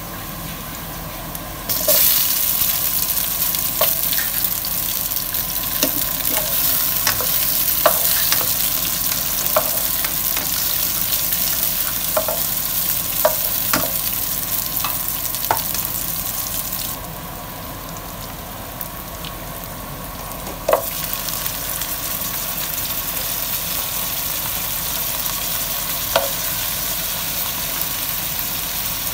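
Garlic and onions sizzling in hot oil in a pot while a spoon stirs, knocking against the pot in scattered clicks. The sizzle jumps up suddenly about two seconds in, eases around seventeen seconds, and picks up again after a sharp knock a few seconds later.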